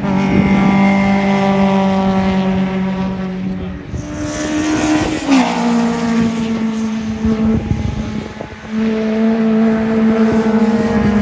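Rally car engines running hard on a race track. The engine note holds steady, then rises and drops sharply about five seconds in as a car shifts up a gear, and swells loud again near the end.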